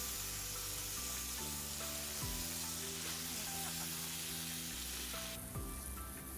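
Steady sizzling hiss from a campfire, with soft background music under it.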